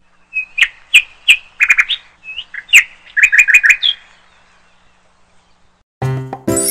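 A bird chirping: short, quick chirps, some in fast runs of four or five, stopping about four seconds in. A music jingle with chime-like tones starts near the end.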